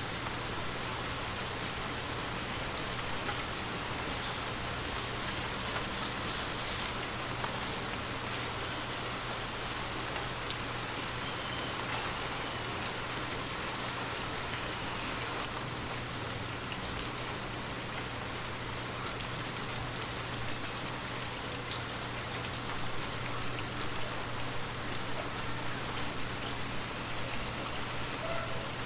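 Steady rain falling, a dense even hiss with scattered drops ticking, over a faint steady low hum.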